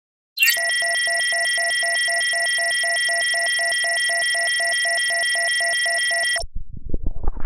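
Synthetic electronic tone sound effect: a steady high-pitched tone with a rapidly pulsing beep over it, about four pulses a second, lasting about six seconds and cutting off abruptly. Near the end a loud, noisy effect with a rising pitch begins.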